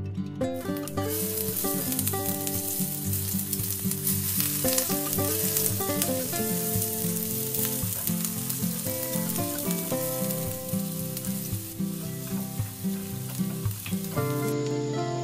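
Minced shallot and garlic sizzling in hot oil in a clay pot while being stirred with chopsticks. The sizzle cuts in about a second in and stops abruptly just before the end.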